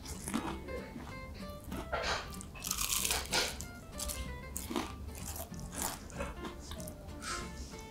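Repeated crisp crunches of someone biting and chewing a hand-held piece of freshly fried kakiage, a shredded-vegetable and shrimp tempura fritter. Background music plays underneath.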